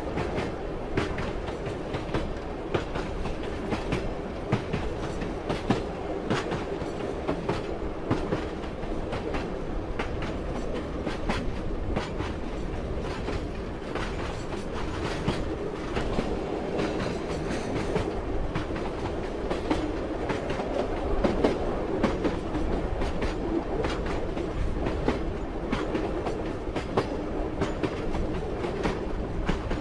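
Train running along the track: a steady rumble of the wheels on the rails with a constant stream of clacks as the wheels cross rail joints.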